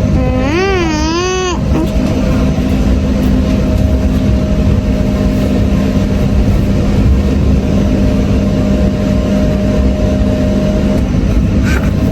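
Electric commuter train running, a loud steady rumble with a constant motor hum that cuts off about eleven seconds in. A short wavering voice sounds about a second in.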